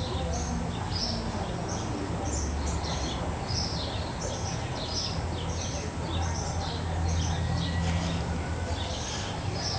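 Small birds chirping: short, high, repeated chirps, one or two a second, over a steady low hum.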